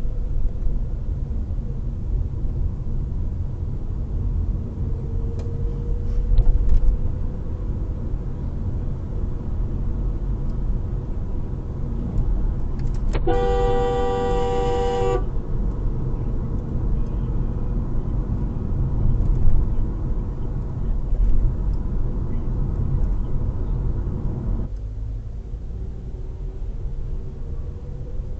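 Steady low road and engine noise picked up by a car's dashcam, with a car horn sounding once for about two seconds about halfway through.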